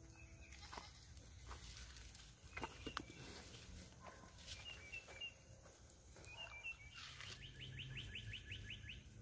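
Faint birds chirping: a few short chirps around the middle and a fast, even trill near the end, with a few soft clicks over a quiet background.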